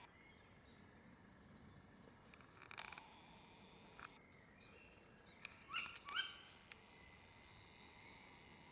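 An owl calling twice in quick succession about six seconds in, two short pitched calls, against a faint night hiss with a few soft taps.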